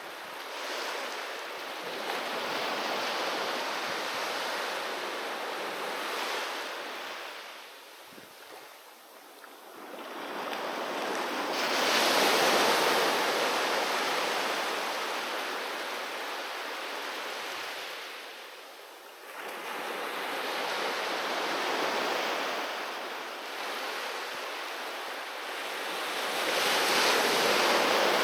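Sea waves breaking and washing up the shore, coming in slow swells of rushing noise that rise and fall every several seconds, with the biggest surges about twelve seconds in and near the end.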